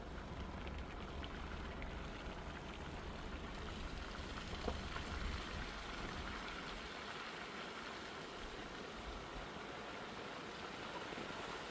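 Steady hiss of rain, with the low rumble of a vehicle that drops away about halfway through.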